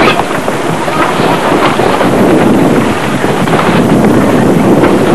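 Strong wind blowing across the microphone: a loud, steady rushing noise with gusty buffeting.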